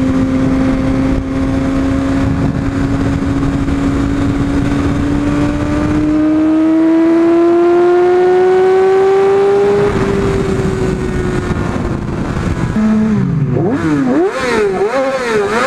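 A Yamaha R6's inline-four engine runs at freeway speed, its pitch climbing slowly over about ten seconds as the bike gathers speed, over a steady rush of wind noise. Near the end the engine is revved up and down several times in quick succession.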